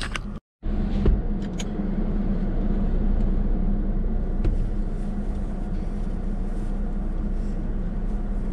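Steady low hum of a car's engine idling, heard from inside the cabin, with a couple of small clicks about a second in. The sound cuts out for a split second just after the start.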